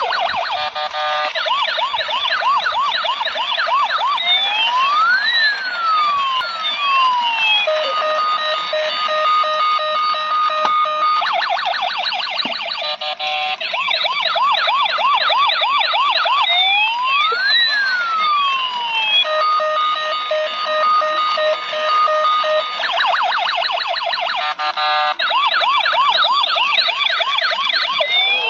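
Electronic toy siren sound effect cycling through its patterns: a fast warbling yelp, a slow rising-and-falling wail, then a steady tone with rapid beeps. The whole sequence repeats about every twelve seconds.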